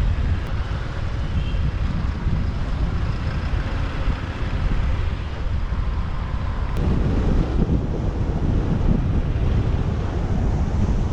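Wind buffeting the microphone of a moving motorbike, over a steady rumble of engine and traffic noise that grows heavier about seven seconds in.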